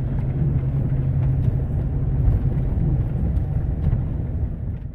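Chevrolet Silverado 2500HD pickup driving off in four-wheel drive through snow: steady engine drone and road noise, the engine's low hum easing off about halfway through.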